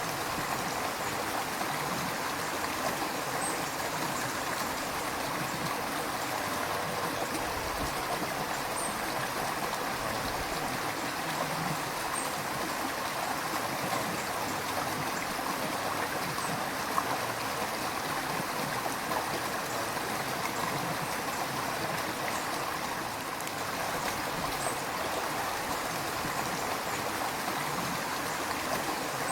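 River water flowing steadily over rocks, a constant rushing with a babble of small splashes.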